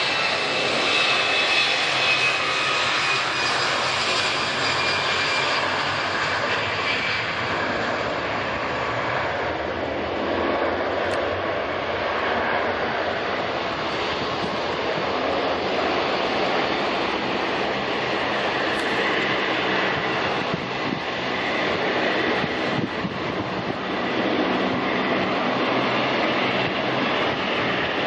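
Jet airliner engines running: a steady rush with a high whine that fades over the first few seconds.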